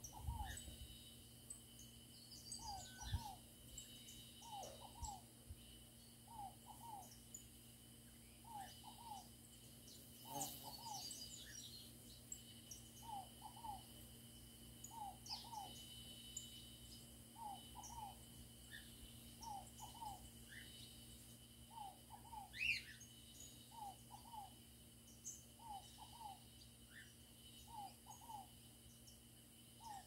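Faint birdsong: a bird repeats a short two-note call about every two seconds, with scattered high chirps from other birds and one louder high call about two-thirds of the way through. A steady high insect drone runs underneath.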